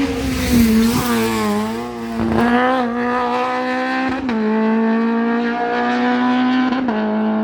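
Race car engine running hard at high revs, with a steady pitch that dips sharply for a moment several times, about every two seconds.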